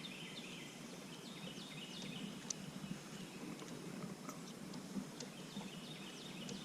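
Faint, high-pitched chirping calls from small wild animals, repeated as short notes throughout, with a few light clicks.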